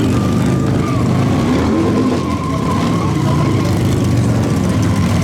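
Motorcycle engine running hard at high revs with a steady tyre squeal, as in a burnout.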